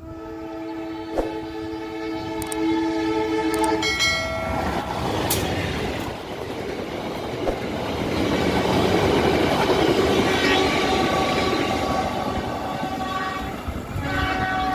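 Diesel-hauled passenger train running through a station without stopping. The locomotive's multi-tone horn sounds one long blast for about four seconds as it approaches, then the engine and the carriages' wheels on the rails rumble past, and the horn sounds again near the end.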